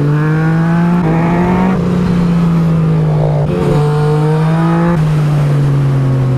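Yamaha MT-09 SP's three-cylinder engine through an Akrapovič exhaust, accelerating hard: the pitch climbs and drops at each of several upshifts, then eases off near the end.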